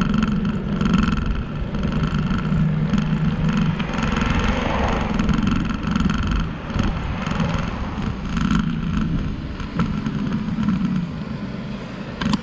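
Steady riding noise from a bicycle moving along a paved trail: a low hum under an even hiss, with the hiss swelling briefly about four to five seconds in.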